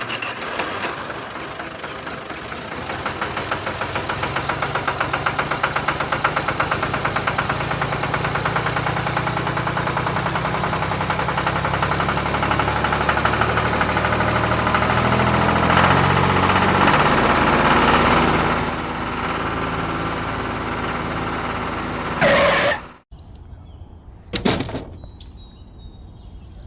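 A small engine or motor running with a fast, regular pulse, its pitch shifting now and then. It cuts off abruptly near the end.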